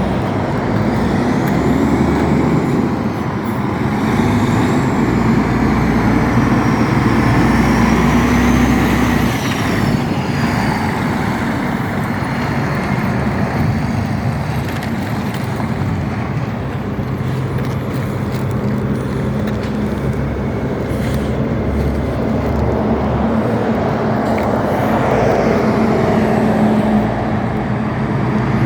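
Heavy truck driving: a steady engine drone with road noise. In the first ten seconds a thin high whine rises and falls in pitch.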